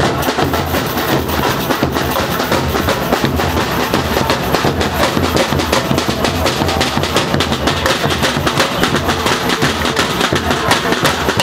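Brazilian bateria (samba drum ensemble) playing a loud, fast, dense rhythm of drums and percussion over a steady, pulsing bass-drum beat.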